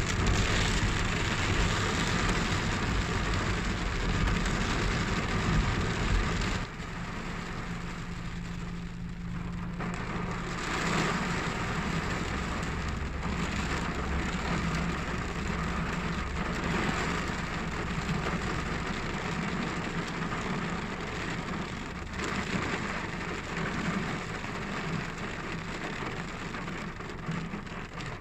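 Steady rain falling, an even hiss under a low steady hum; the sound drops suddenly in level about six and a half seconds in.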